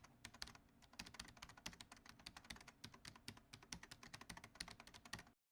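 Faint, rapid, irregular clicking that cuts off suddenly near the end.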